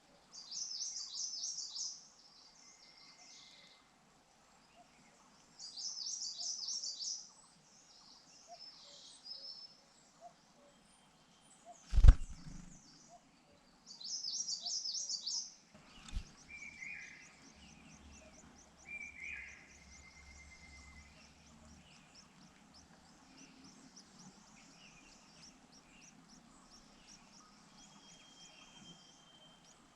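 Grey-eyed fulvettas calling: three bursts of high, rapid chittering, each lasting a second or two, with softer ticking calls later on. A single sharp knock about twelve seconds in is the loudest sound, and a smaller knock follows a few seconds later.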